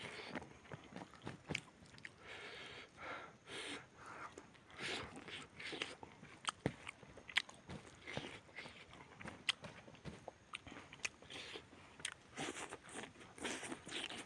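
A man chewing and smacking his lips while eating rice and grilled chicken by hand, with many short, irregular clicks.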